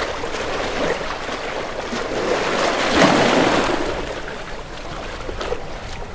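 Sea waves washing, one surge building to its loudest about halfway through, then ebbing away.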